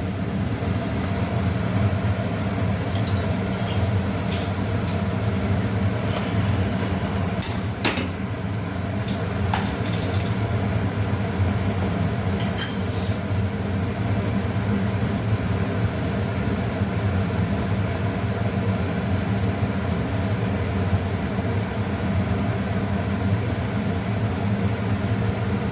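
Steady low mechanical hum of a kitchen appliance motor, with a few light clinks of a utensil against the kadai, about eight seconds in and again around twelve to thirteen seconds in.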